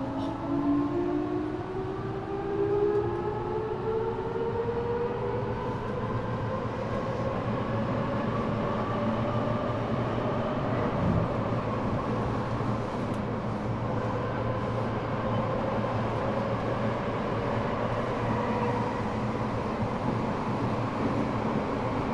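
Teito Rapid Transit (Eidan) 6000 series subway car running on a high-pitched Mitsubishi three-level VVVF inverter taken from the 7000 series, heard from the car floor. Several whining tones rise together as the train accelerates for about the first ten seconds, then level off into a steady run over wheel and rail rumble in the tunnel. A single low knock comes about halfway through.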